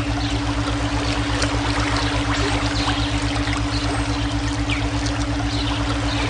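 Steady rushing of flowing stream water, mixed with continuous low, rapidly pulsing synthetic brainwave tones. Short, scattered high chirps sit within the water noise.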